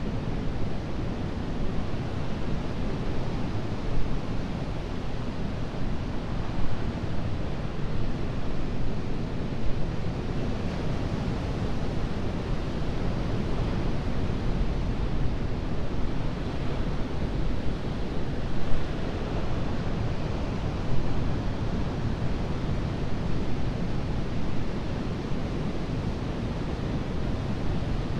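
Atlantic surf washing on a sandy beach, a continuous rush with gentle swells in loudness and no distinct single breaks, with a low rumble of wind on the microphone underneath.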